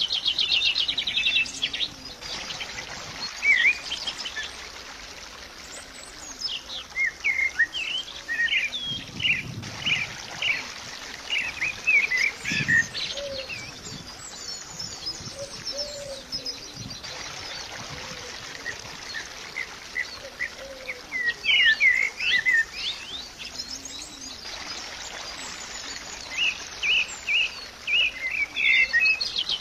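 Birds chirping and singing in many short calls, with a fast trill at the start and again near the end.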